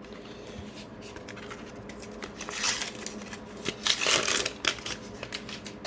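A Panini sticker pack's wrapper being crinkled and torn open and the stickers handled, with two louder tearing rustles about two and a half and four seconds in.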